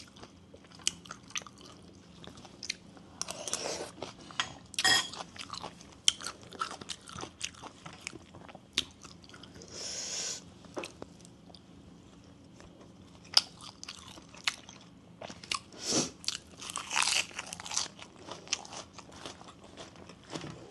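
Close-miked chewing and biting while eating bamboo shoot soup with sticky rice: irregular crunchy, wet clicks with a few longer noisy mouth sounds in between.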